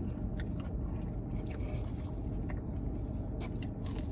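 A person chewing and biting fried food close to the microphone: small scattered crunches and mouth clicks over a steady low hum.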